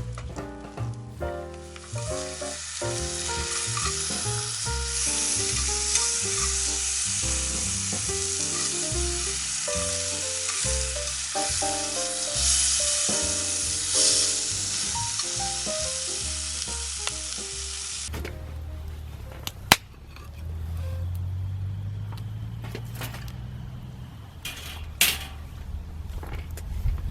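Food sizzling in a hot pan over a wood-fired camp grill, with background music playing over it. Both stop suddenly about two-thirds of the way in; then a low rumble swells and fades, with a few sharp clicks.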